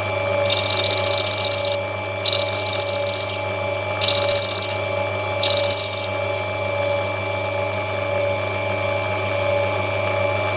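Opal being ground on a spinning grinding wheel of an opal-cutting machine: four short bursts of grinding hiss in the first six seconds as the stone is pressed to the wheel, over the motor's steady hum. After that only the machine runs.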